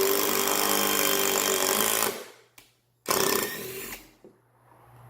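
Black & Decker BDCI20C 20V cordless impact driver hammering a screw into wood for about two seconds. A second, shorter run follows about a second later and fades away.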